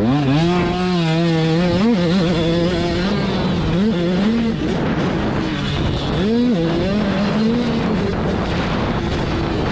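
Dirt bike engine running hard and revving, its pitch holding steady for stretches and swooping up and back down several times.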